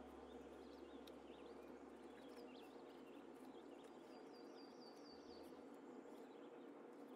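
Faint birds chirping over a steady low hum, with a quick run of repeated chirps about four seconds in.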